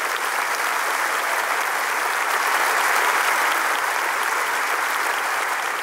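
Concert hall audience applauding, a dense clapping that swells at the start, holds strongly through the middle and eases slightly near the end.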